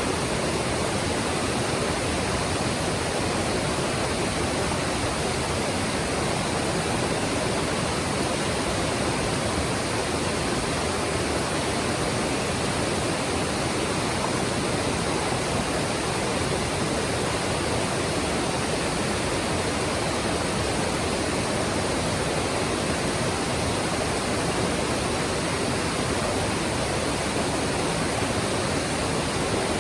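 Mountain stream water rushing and splashing over rocks in a steady, unbroken rush.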